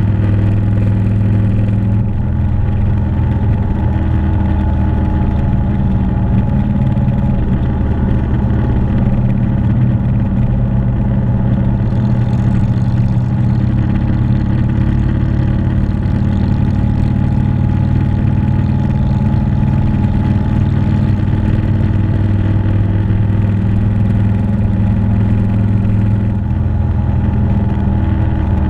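Motorcycle engine running steadily at road speed, its engine note shifting a few times.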